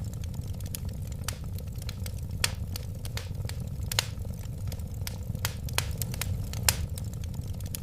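Wood fire burning: a steady low rumble of flames with irregular sharp pops and crackles, several of them a second.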